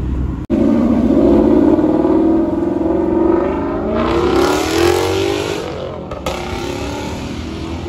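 A car engine revving hard as the car accelerates past, its note climbing slightly and then dropping as it goes by. As it passes closest, about four seconds in, a loud rush of exhaust and tyre noise comes with it.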